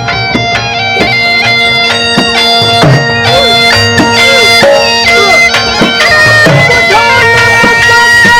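Saraiki folk music: a wind instrument plays a melody over a steady, unbroken drone, with drum strokes underneath.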